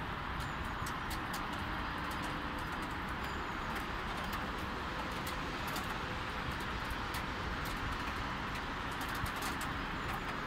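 Light rain falling: a steady hiss with irregular sharp ticks of drops, over the distant wash of road traffic.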